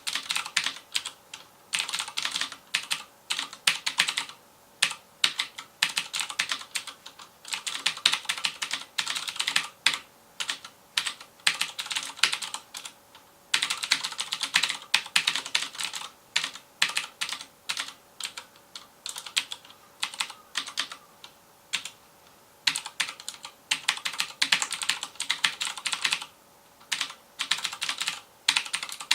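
FILCO Majestouch Convertible 2 mechanical keyboard with clicky Cherry MX Blue switches being typed on fast: a dense stream of sharp keystroke clicks in runs, broken by short pauses every few seconds.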